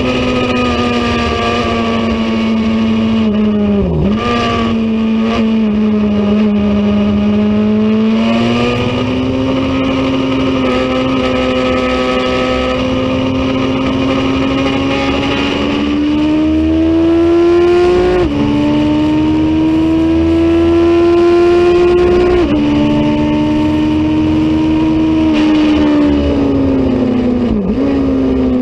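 Racing motorcycle engine running hard at high revs. Its pitch climbs under acceleration and drops sharply at gear changes, about four times.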